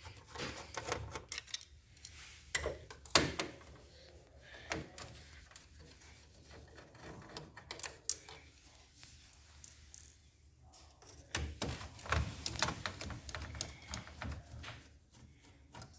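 Scattered clicks and light metallic taps of a screwdriver and screws as three long machine screws are taken out of a copier's main-motor drive gear assembly. The loudest clicks come about three seconds in, and another cluster comes in the last few seconds.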